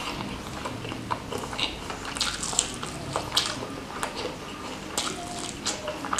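Close-miked chewing of a mouthful of ayam geprek (smashed fried chicken in sambal) and rice: wet smacking mouth sounds with many short, sharp clicks.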